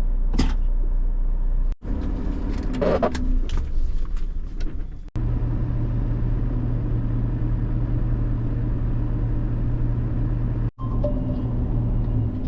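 Renault T480 lorry's diesel engine idling with a steady low hum, broken off abruptly three times by very short dropouts. A few sharp knocks and clatters sound in the first few seconds.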